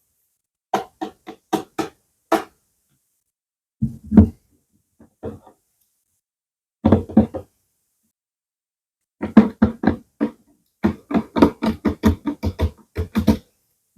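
Quick tapping and clicking sounds in bursts of several strokes with silent pauses between, the longest run near the end.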